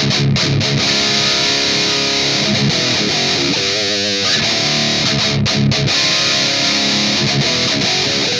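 Distorted electric guitar playing riffs, ringing chords and notes, with a held note shaken by vibrato about four seconds in.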